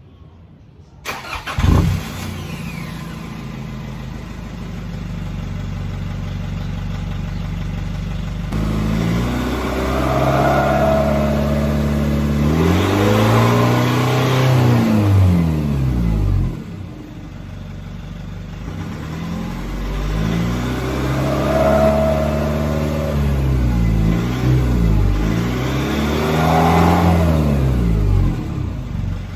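Nissan Navara engine with the muffler removed, starting about two seconds in and idling, then revved up and down repeatedly in two long spells, the exhaust loud and unmuffled.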